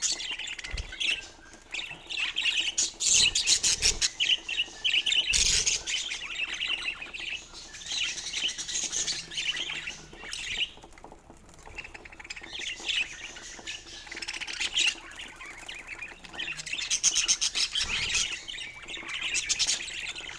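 Budgerigars chirping and chattering, busy overlapping calls with a brief lull about eleven seconds in, and a few soft low thumps.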